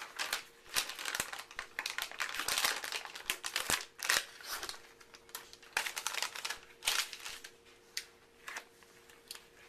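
Crinkly wrapping rustling and crackling as it is handled, with many small clicks and taps, busiest in the first half; a faint steady hum underneath.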